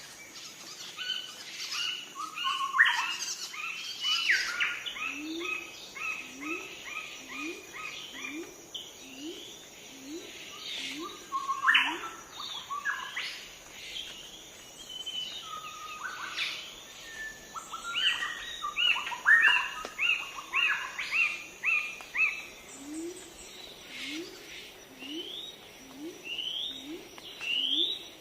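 Several birds chirping and singing, with quick trills and short tweets overlapping, and runs of short, low, rising call notes repeated about twice a second.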